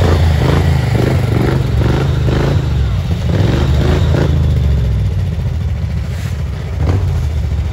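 Riding lawn mower engine running hard under load while crawling over rocks, with a rapid clattering pulse for the first four or five seconds that then eases off.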